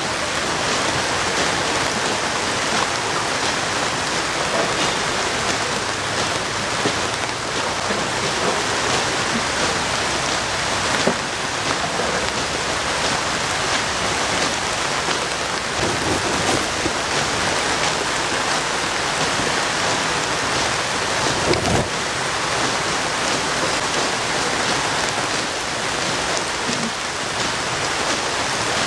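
Heavy rain falling steadily, an even hiss of downpour on the ground, with two brief knocks about 11 and 22 seconds in.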